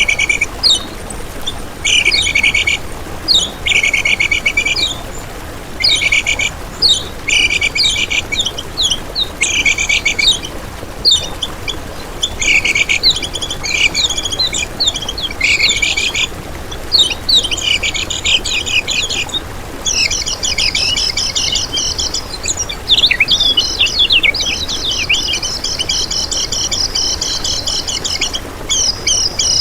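Kecial kuning (a yellow white-eye) singing fast, high, twittering chirp phrases, each about a second long with short pauses between them. From about two-thirds of the way in, the phrases run together into near-continuous chattering song.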